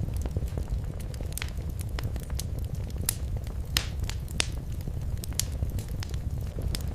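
Wood fire crackling in a fireplace: irregular sharp pops and snaps, a couple of louder ones midway, over a steady low rumble of flames.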